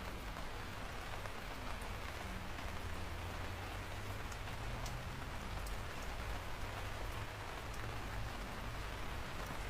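Steady rain falling, with the patter of individual drops ticking on a surface over a low, even rumble.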